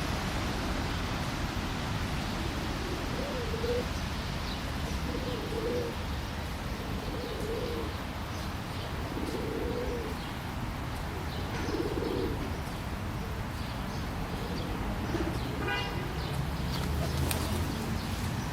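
A pigeon cooing, low coos repeated about every two seconds, over a steady background hiss. A small bird gives a short rapid trill near the end.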